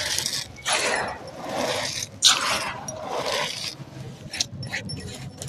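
Dry, stony sand-cement chunks being crumbled, a gritty crunching and crackling. Two long crunches of about a second each come first, then shorter crackles in the second half.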